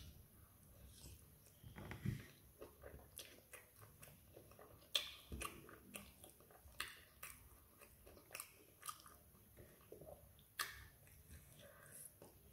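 A person chewing and biting fried plantain close to the microphone: irregular sharp mouth clicks and smacks, the sharpest about five seconds in.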